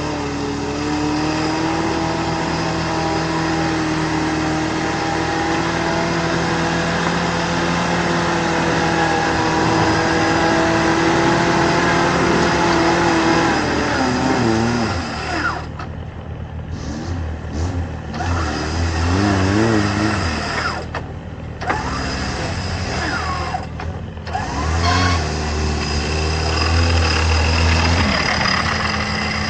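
Off-road 4x4 engine running hard at high revs, its pitch held nearly steady for about thirteen seconds. In the second half the revs rise and fall unevenly, and the sound cuts out briefly several times.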